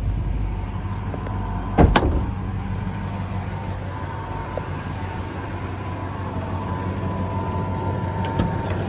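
Chevrolet 5.7-litre small-block V8 idling steadily, with two sharp knocks close together about two seconds in.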